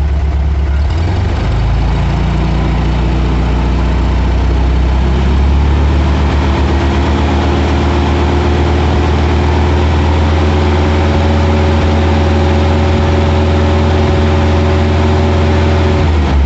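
Air-cooled Volkswagen flat-four engine with a single carburettor, held above idle by hand at the throttle linkage. Its speed rises in two steps in the first few seconds, holds steady, then drops back toward idle near the end. The engine is being held at fixed speeds while its ignition advance is checked with a timing light, with the vacuum advance disconnected.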